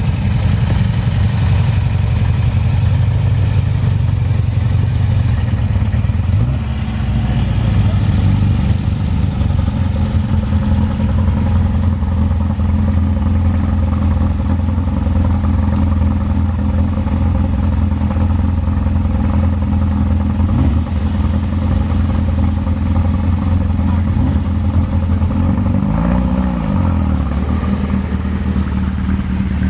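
A line of cars, VW Beetles and then Ford Mustangs, idling and creeping past one after another, engines running steadily at low revs. Near the end one engine revs briefly up and back down.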